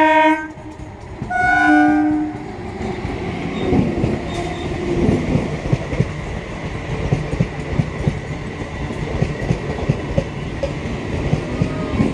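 Indian Railways EMU local train sounding its horn: one blast ends about half a second in and a second short blast comes about a second and a half in. The train then runs past with a steady rumble and the clickety-clack of its wheels over the rail joints.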